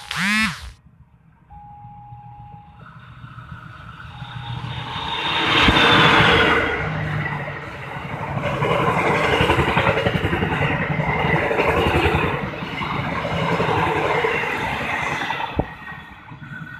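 Argo Muria passenger train passing close at speed. The rush of noise builds to a peak about six seconds in, then the wheels clatter rhythmically over the rails as the carriages go by, fading away near the end as the last car passes.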